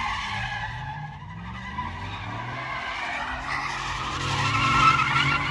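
Truck tires squealing as it slides under hard throttle, with the engine revving up and down beneath. The squeal grows louder in the second half.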